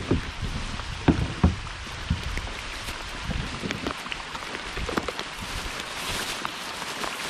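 Hard summer rain falling in a steady hiss, with a couple of sharp low thumps about a second in.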